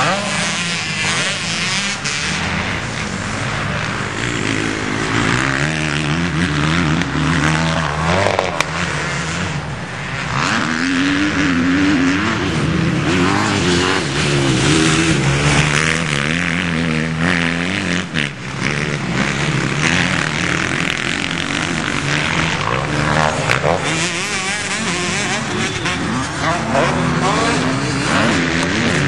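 Motocross motorcycle engine ridden hard, its pitch climbing and dropping again and again as the throttle is opened and shut. There is a loud rushing noise under it throughout.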